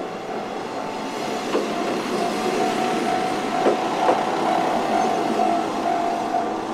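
Yellow Isumi Railway diesel railcar passing over a level crossing, its running noise swelling in the middle with a few sharp wheel clacks at rail joints. The Japanese level-crossing bell rings steadily throughout.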